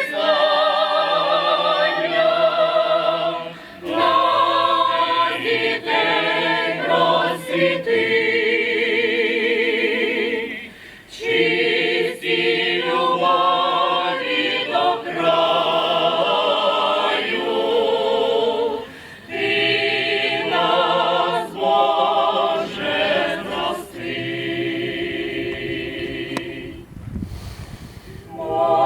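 Choir singing in sustained phrases, with vibrato on held notes and short breaths between phrases.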